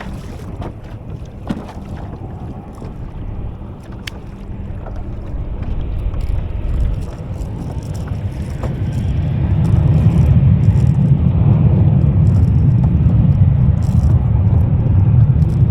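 Boat engine drawing near: a low rumble that swells over about four seconds from roughly six seconds in, then runs steady and loud. A few light knocks come in the first few seconds.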